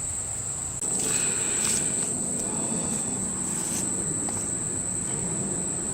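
Crickets or other insects trilling steadily at a single high pitch. A rougher noise with a few soft knocks joins just under a second in.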